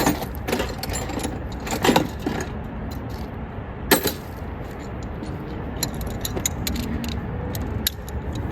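Metal hand tools clinking and clicking, a socket wrench being fitted and worked on a bolt, with a run of small quick clicks near the end.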